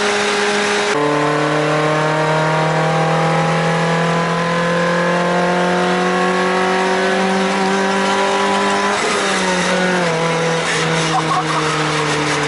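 Toyota AE86 Sprinter Trueno's engine under way. The revs drop sharply about a second in, as at a gearshift, then climb slowly and steadily for several seconds before falling again near the end, over steady road and wind hiss.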